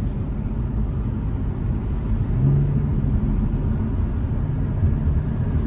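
Hyundai Elantra N's turbocharged 2.0-litre four-cylinder engine running while driving, under a steady low road and wind rumble. About two and a half seconds in, the engine note grows stronger and holds steady.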